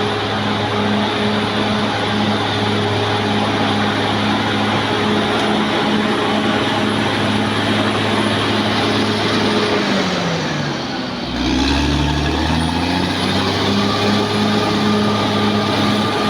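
Caterpillar D6R XL bulldozer's diesel engine running steadily with a faint high whine. About ten seconds in, the engine speed drops, a deeper note comes in, and the revs climb back up.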